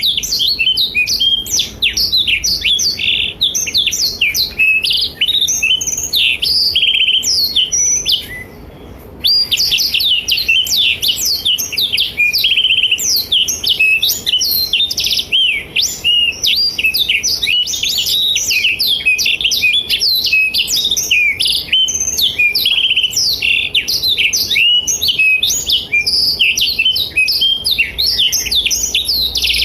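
Blackthroat (black-throated canary) singing a fast, unbroken run of high chirps and trills. The song breaks off for about a second about eight seconds in, then carries on.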